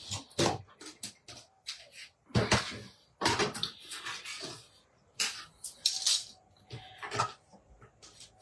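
Irregular clicks, knocks and rustling from die-cutting gear and paper being handled on a craft desk: cutting plates, metal dies and cut paper pieces set down and moved about.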